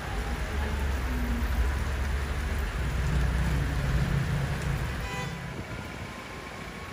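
Heavy rain falling in a steady hiss, with the low rumble of a passing vehicle's engine that swells and then fades away about five seconds in.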